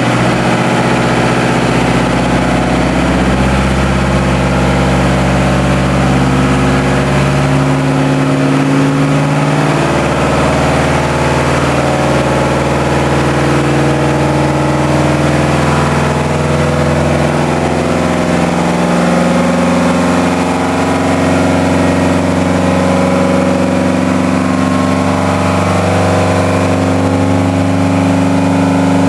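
A new, not yet run-in TDME-490 marine diesel running steadily at raised revs. Its note shifts in pitch a few times as the revs change slightly.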